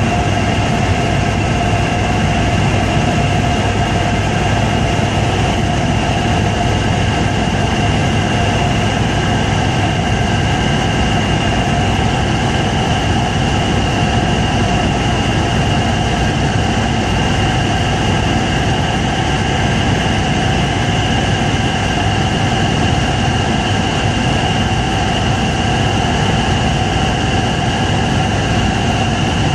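Helicopter in flight: steady engine and rotor noise with a constant high whine over a low rumble.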